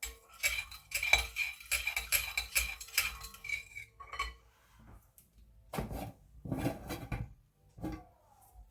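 Metal cutlery and dishes clinking together as they are handled, a dense ringing clatter for the first few seconds, followed by a few softer knocks and rustles.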